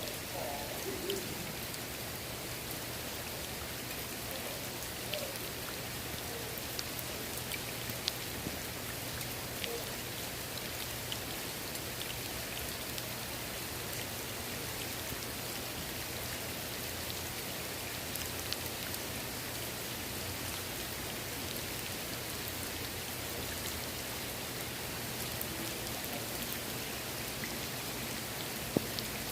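Steady rain falling on the water of a swimming pool: an even hiss scattered with the sharp ticks of single drops.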